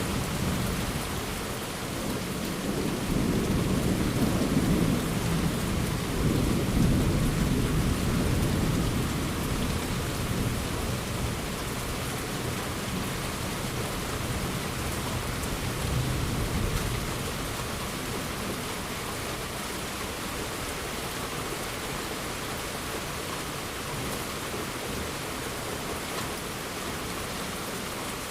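Thunderstorm: rain falling steadily with a long rolling rumble of thunder through the first half that slowly dies away, leaving only the even hiss of rain.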